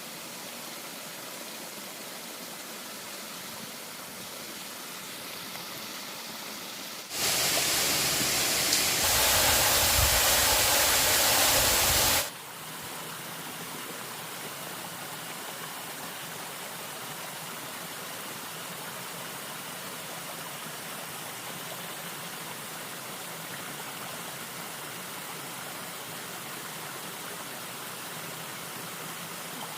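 Steady rushing-water noise, like a stream or heavy rain. About seven seconds in it jumps to a much louder rush with a low rumble for about five seconds, then cuts back sharply to the earlier level.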